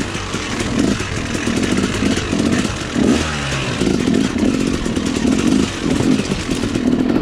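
Dirt bike engine running with uneven throttle blips, its pitch falling briefly about three seconds in, over a steady rushing hiss.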